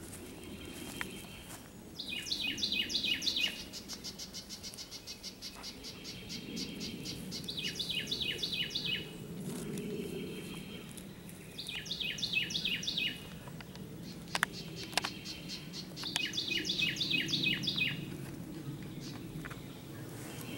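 A songbird singing: four or five bursts of rapid, repeated down-slurred whistled notes, each burst a second or so long, with a faint steady high buzz in the gaps. Two sharp clicks come about two-thirds of the way through.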